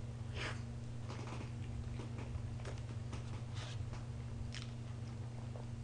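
Close-up chewing of a mouthful of soft fresh-cream sponge cake, with scattered faint wet smacks and clicks of the mouth, over a steady low hum.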